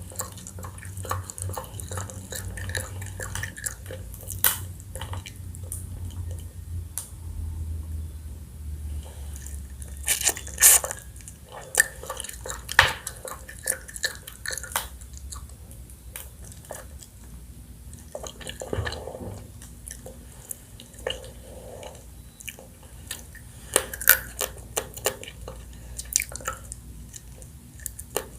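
Close-up eating sounds of pickled blue crab with roe: wet chewing and smacking, with many short, sharp clicks of cutlery or shell against a dish.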